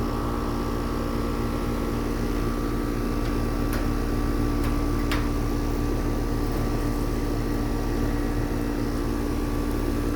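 2-ton Payne straight-cool air conditioner running, a steady hum with a low rumble under it. Two faint ticks come about four and five seconds in.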